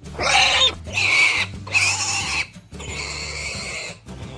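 Pig sound effect: four separate pig calls, each under about a second, harsh and high.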